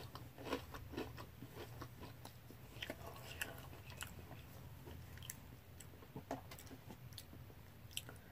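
A person chewing a mouthful of French toast cereal: faint, irregular crunching and small wet mouth clicks.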